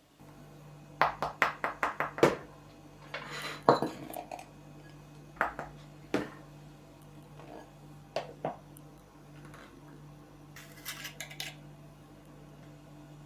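Dishes and cutlery clinking and clattering: a quick run of about seven clinks, a longer clatter a few seconds in, then scattered single knocks, over a steady low hum.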